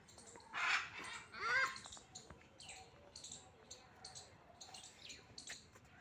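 Two loud, harsh bird squawks in quick succession about half a second to two seconds in, over the steady high chirping of small birds.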